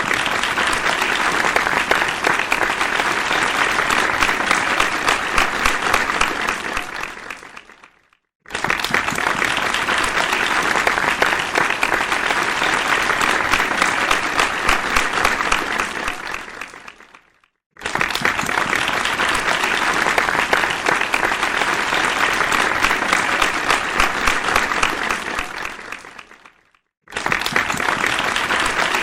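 A large audience applauding, many hands clapping densely together. It comes in runs of about nine seconds: each starts abruptly, fades out over a second or two, and breaks to a brief silence before the next begins. This happens three times.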